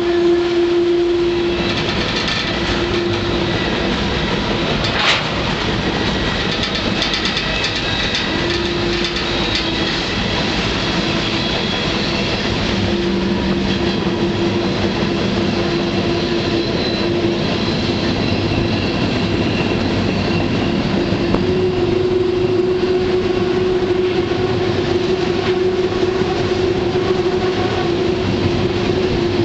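Freight train rolling along at speed, heard from aboard one of its cars: the steady rumble and rattle of the cars on the rails, with a humming tone that comes and goes and a single sharp knock about five seconds in.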